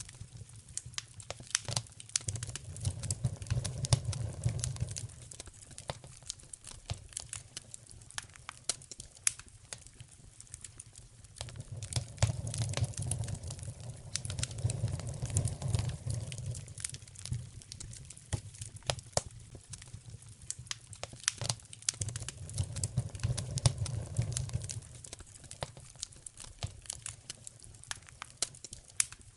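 Wood fire crackling in a fireplace, with dense sharp pops and snaps throughout. A low rumble swells up three times, each lasting a few seconds.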